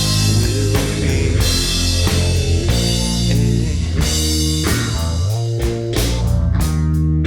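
Live rock band playing an instrumental passage: electric guitar, bass and drum kit, between sung verses.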